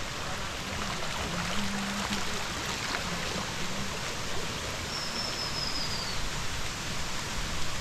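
Steady rushing of a stream or falling water. About five seconds in comes one thin, high whistle that falls slightly in pitch.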